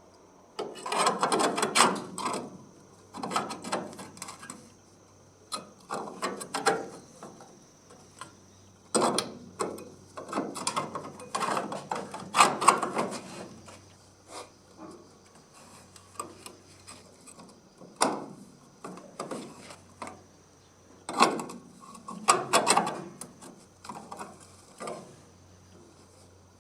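Hand tools working on the car's metal bodywork in short, irregular bouts of clicking and scraping, each lasting a second or two with pauses between.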